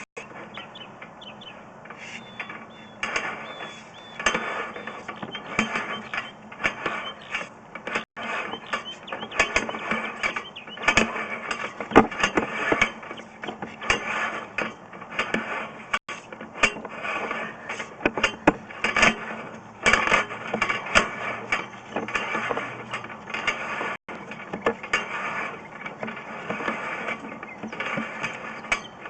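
Sewer inspection camera's push cable being fed from its reel: irregular mechanical clicking and rattling, with louder knocks now and then.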